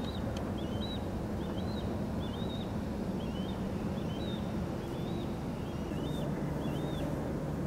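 A songbird repeats a short, curling chirp over and over, a little faster than once a second, above the steady low rumble of a boat trolling slowly.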